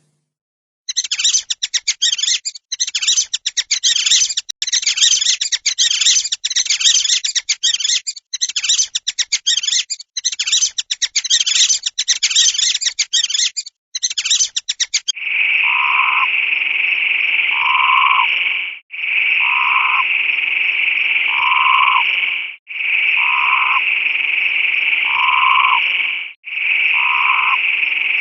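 A frog croaking in fast rattling trills, broken by short pauses, for about the first half. After that comes a steady buzz in four stretches of about three and a half seconds each.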